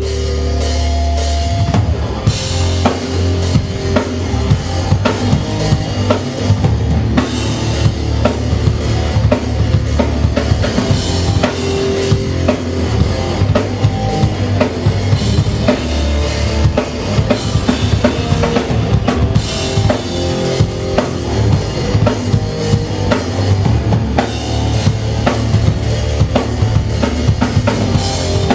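Hardcore punk band playing live: a drum kit hitting fast and densely over loud, sustained bass.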